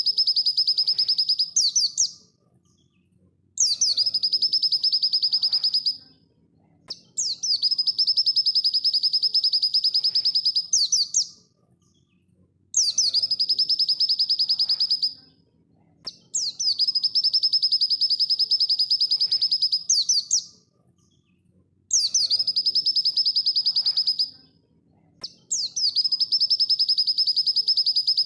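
Pleci (white-eye) singing its 'dakun' song at full speed: about seven phrases, each two to four seconds of very fast, high trilled notes ending in a few quick upward sweeps, separated by short pauses.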